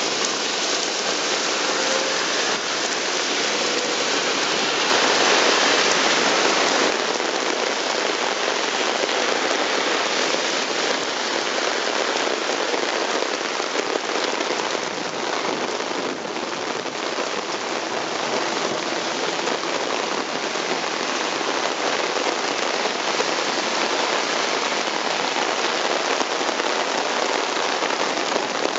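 Heavy rain pouring down and hitting the ground, a steady dense hiss that swells a little louder for a couple of seconds about five seconds in.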